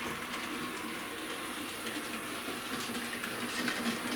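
A4 model locomotive running steadily along the track, its electric motor and wheels on the rails making a continuous whirr.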